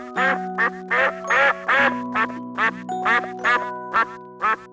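Duck quacking in a rapid series of short, falling calls, about three a second, over a background of light children's music with sustained tones.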